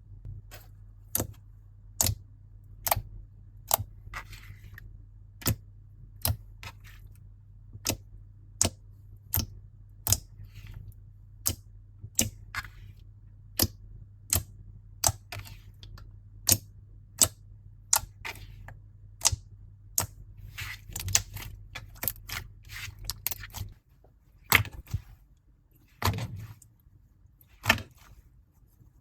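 Slime being pressed and worked, with sharp popping clicks at a steady pace of a little over one a second and softer squishy crackles between them. The crackles grow busier near the end.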